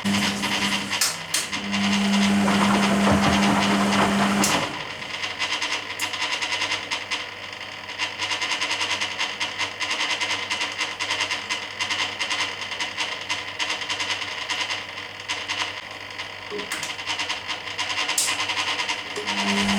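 Hoover Keymatic A3112 washing machine in its rinse: the motor hums as it turns the stainless steel drum, stops about four and a half seconds in, and starts again near the end. While the drum rests, there is a steady noisy wash with scattered clicks and knocks.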